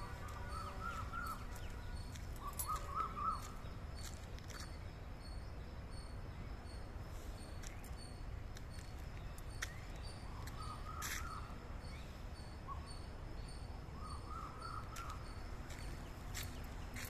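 Small birds chirping: short runs of quick chirps heard four times, over steady low outdoor background noise, with a few scattered clicks.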